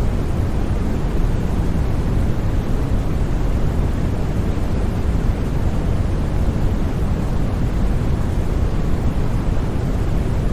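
Steady, unbroken sleep noise, deep and rumbling, with most of its weight in the low end and fading toward the treble. There are no changes or sudden sounds.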